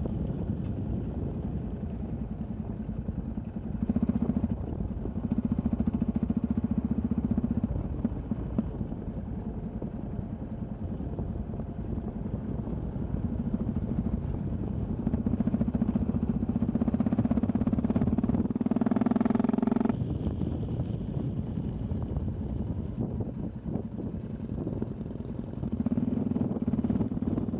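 Yamaha XT660Z Ténéré's single-cylinder engine running on the move, its note swelling louder several times as the throttle opens, with a brief higher-pitched rise near the two-thirds mark.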